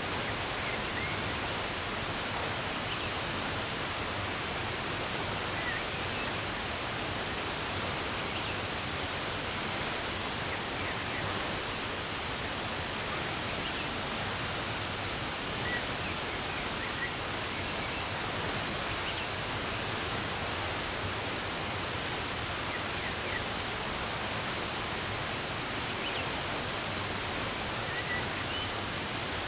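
Steady rush of running water, with faint, short bird chirps scattered over it.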